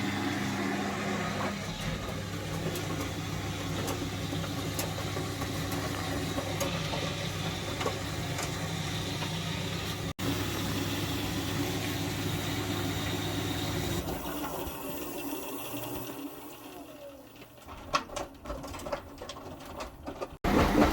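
Indesit washing machine drain pump running with a steady hum as it pumps water out; the hum stops about fourteen seconds in, leaving a quieter stretch with light ticks and rattles near the end.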